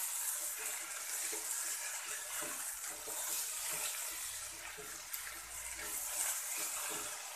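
Sliced potatoes and onions sizzling gently in hot oil in a kadhai over a low gas flame, a steady hiss, with the spatula turning and scraping them now and then.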